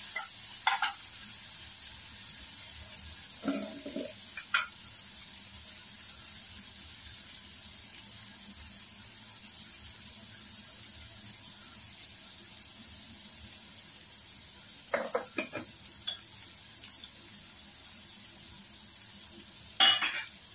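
Chopped bitter gourd frying in a steel pan with a steady sizzle, broken by a few clinks and scrapes of a steel spoon against the pan, the loudest near the end.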